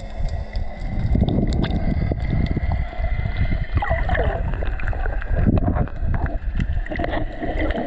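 Water sloshing and wind buffeting the camera microphone on a kayak: a steady low rumble with scattered small splashes and clicks, and a brief sliding sound about four seconds in.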